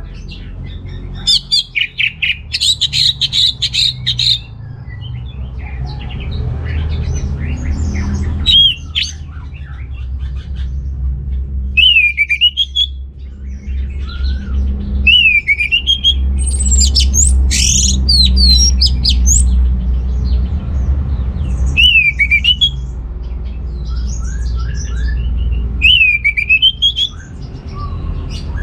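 Orange-headed thrush singing loud, varied phrases: a fast stuttering run of notes early on, then repeated sweeping down-and-up whistles every few seconds, over a steady low rumble.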